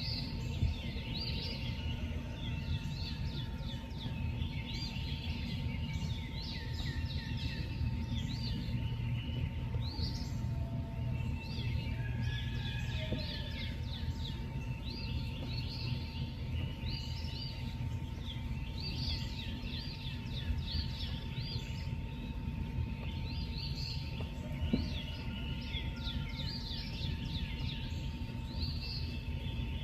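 Many birds chirping together in overlapping waves of quick, falling chirps, over a steady low rumble and a faint steady hum.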